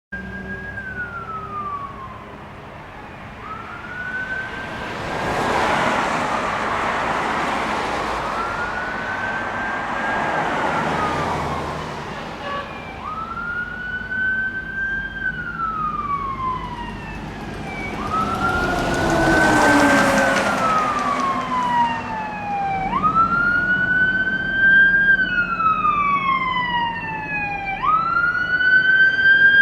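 Fire apparatus electronic siren on a wail, rising and then falling about every four to five seconds, with rushes of vehicle noise swelling and fading as the trucks pass. Near the end a second siren with a quicker, higher sweep joins in.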